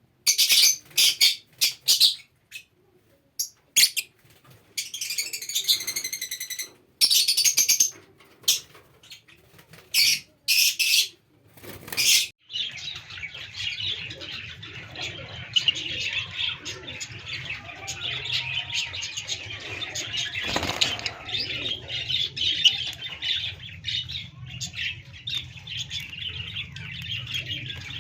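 Small pet parrots, budgies and lovebirds, calling in separate loud chirps and squawks, then from about halfway in a dense, continuous chatter of many birds together.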